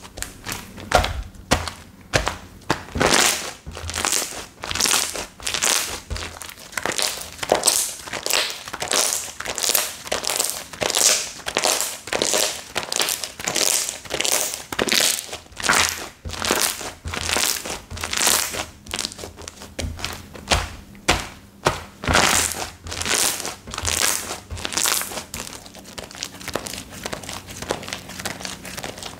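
Slime being pressed and kneaded by hand, a run of sharp squishes about twice a second that grows sparser near the end.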